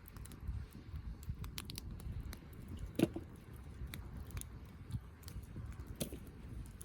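Wood campfire burning: scattered crackles and clicks over a low rumble, with a louder pop about three seconds in and another near six seconds.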